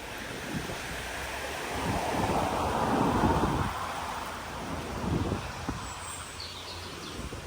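A car passing by on the road, its tyre and engine noise swelling to a peak about three seconds in and then fading. A second, shorter rush follows a couple of seconds later.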